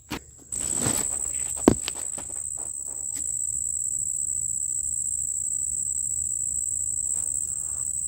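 Steady, high-pitched song of insects in late summer, one unbroken shrill note that starts suddenly about half a second in. Short rustles and a few footsteps through the plants are heard over it, with a sharp click a little under two seconds in.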